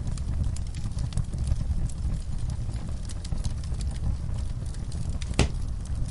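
Wood fire crackling in a fireplace: a steady low rumble of burning logs with scattered sharp pops and clicks, and one louder pop about five seconds in.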